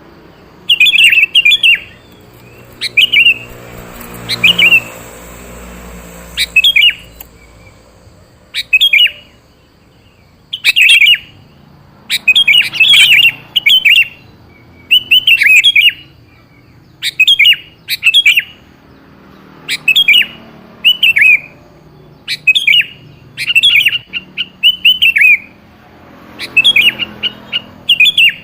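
Sooty-headed bulbul (kutilang) singing: loud, short, high chirping phrases repeated every second or two, used as a lure call.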